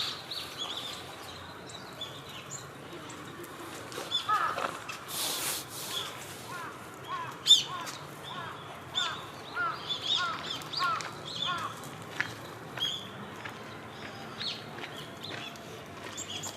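Wild birds calling: a run of short, repeated notes several a second from about six to twelve seconds in, among scattered higher, thinner calls, with one sharp click about seven and a half seconds in.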